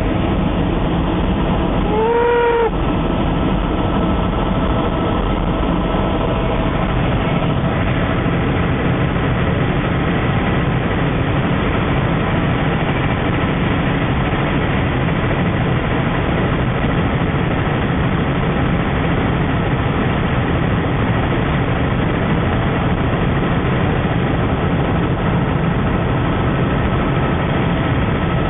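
Loud, steady engine noise with faint steady tones running through it, and a short pitched tone about two seconds in.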